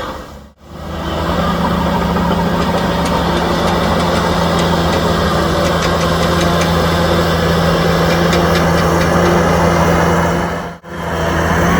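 Heavy diesel earthmoving engine running steadily with a low, even hum. The sound cuts out briefly twice, about half a second in and near the end.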